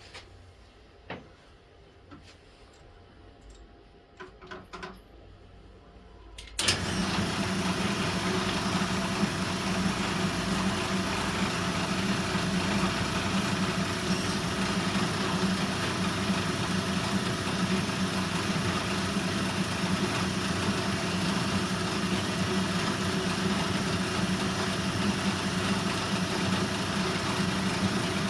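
A few light clicks and knocks, then about six and a half seconds in a workshop machine switches on suddenly and runs steadily with a constant low drone.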